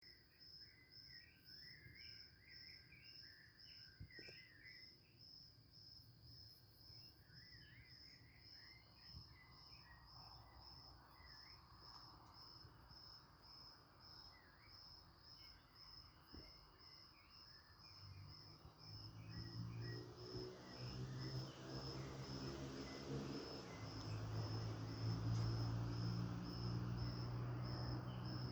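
A cricket chirping in a steady, even pulse, about two chirps a second, with a few wavering higher calls in the first seconds. About eighteen seconds in, a low humming drone comes in and grows louder until it is the loudest sound.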